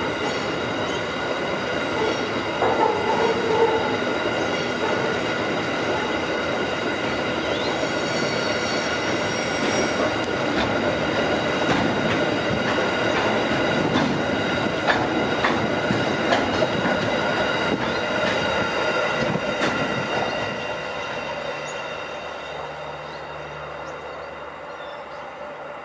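Freight wagons rolling past on steel rails, with a steady high-pitched wheel squeal and scattered clicks of wheels over the track. The sound fades about twenty seconds in as the end of the train passes.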